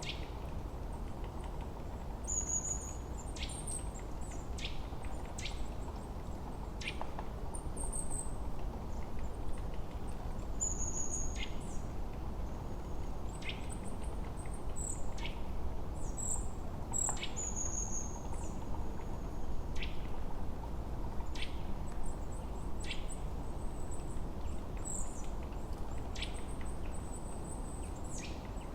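Forest birds chirping: short, high chirps and a sharp call note repeated every second or two, over a steady low hiss of wind.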